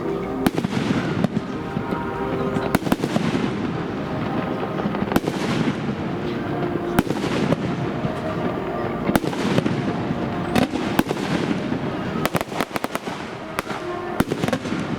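Fireworks bursting overhead: a string of sharp bangs, some followed by a rumbling tail, turning into a quick crackling run of small reports near the end.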